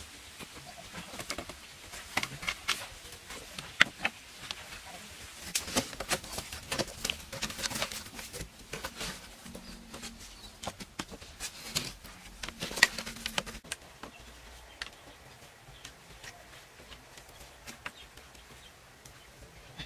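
Close-up eating sounds: a dense run of sharp crackly clicks and rustles, as of crunching and handling food, thinning out in the last few seconds.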